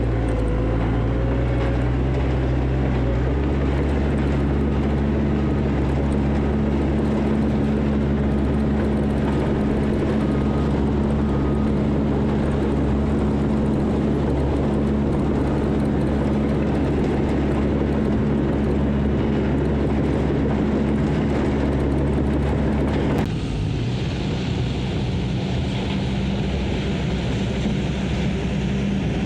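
Diesel engine of heavy earthmoving equipment running steadily, with an even low hum. The sound changes abruptly about 23 seconds in.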